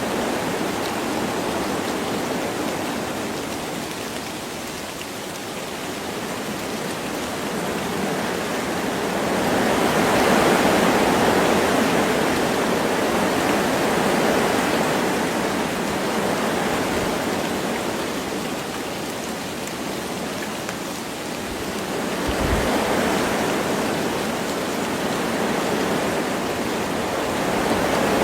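Wind blowing through forest trees in gusts that swell and ease every several seconds, with light rain falling, and one brief low thump about two-thirds of the way in.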